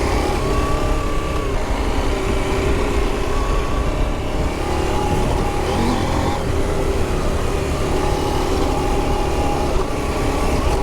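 Adventure motorcycle engine pulling hard under throttle on a dirt track, its pitch shifting a few times as revs change, over a steady low rumble.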